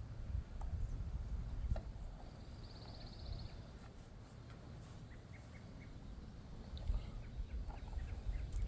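Wind buffeting the microphone in gusts, a low rumble that rises and falls. A few small clicks of hand work with wire and connectors, and a short high trill about three seconds in.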